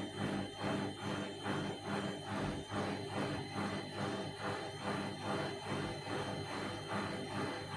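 Vestel CM8710 washing machine in its final spin, the drum turning with a steady hum and an even pulse a little over twice a second.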